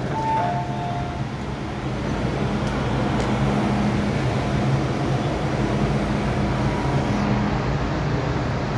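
MTR M-Train electric multiple unit heard from inside: a two-tone door-closing chime finishes in the first second, then the train runs with a steady low hum from its traction equipment and wheel-on-rail noise, growing slightly louder after about two seconds.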